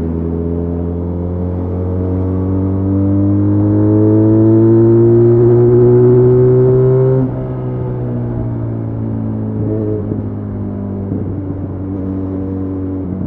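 Benelli Leoncino 500's parallel-twin engine under hard acceleration, its note climbing steadily for about seven seconds. Then the pitch and loudness drop suddenly, and the revs ease slowly down and level off.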